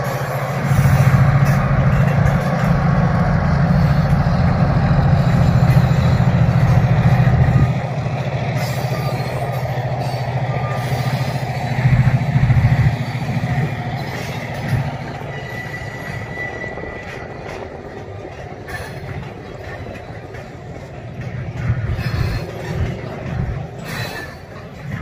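A diesel locomotive's engine drones loudly as it passes slowly at the head of a freight train. After about eight seconds the engine sound eases, and freight cars roll past with scattered knocks and a brief high squeal midway.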